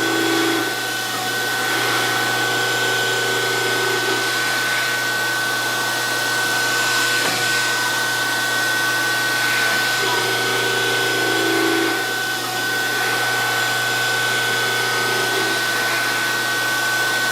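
DoAll 14-inch surface grinder running with coolant flowing while grinding a Kurt vise: a steady high whine over a low hum, with a lower tone that swells and fades a few times as the work passes under the wheel.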